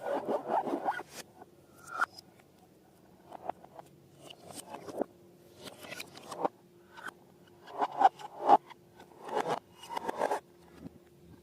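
Slime being worked by hand: irregular bursts of scraping and rubbing, busiest near the start and again in a cluster from about eight to ten and a half seconds in.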